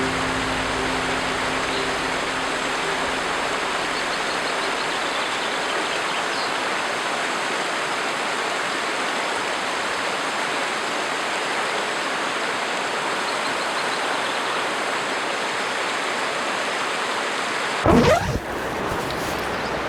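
River water rushing steadily past close by, a constant full hiss. A low hum fades out in the first few seconds, and a brief loud knock comes near the end.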